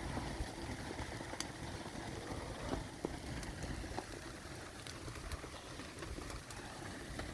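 Wind buffeting the microphone in an uneven low rumble, with scattered faint clicks.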